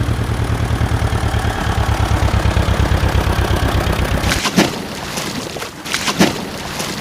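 A heavy vehicle's engine running with a fast, even throb, changing after about four seconds to a rougher rumble with two sudden bangs about a second and a half apart.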